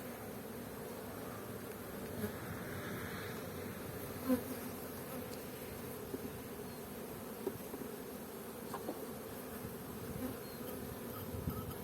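Honeybee colony humming steadily from an opened hive, with a few light knocks, the loudest about four seconds in.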